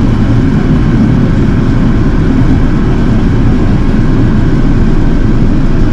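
Steady in-flight cabin noise inside an Airbus A380: the rush of air over the fuselage and the low drone of its Rolls-Royce Trent 900 engines, deepest in the low end.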